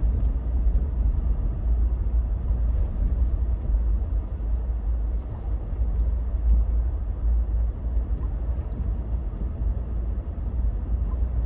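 Steady low road and engine rumble inside a car's cabin while driving on a snowy road.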